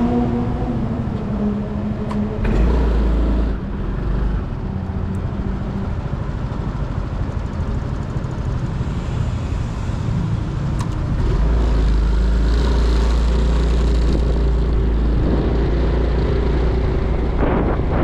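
Motorcycle engine running while riding in traffic, its pitch shifting with speed, over road noise. Wind buffets the microphone, with a heavy low rumble from about two-thirds of the way in.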